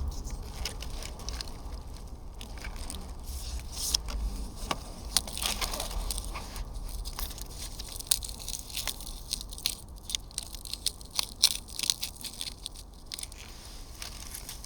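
Campfire of dry reeds burning, crackling with many sharp irregular snaps and pops.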